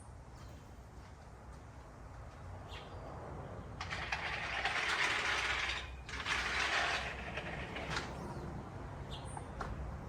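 Small birds give short, high chirps every few seconds. In the middle come two louder bursts of rushing noise, the first about two seconds long and the second about one.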